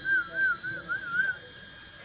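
A high, even warbling whistle that rises and falls in pitch about five times a second, then stops about a second and a half in.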